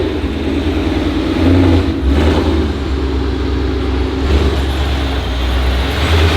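Performance car engine running loudly with a deep exhaust rumble, its pitch rising and falling as it is revved, with a brief sharp noise about two seconds in.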